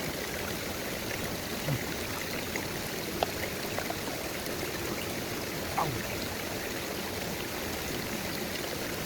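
Steady rushing of a flowing stream, with a few faint knocks.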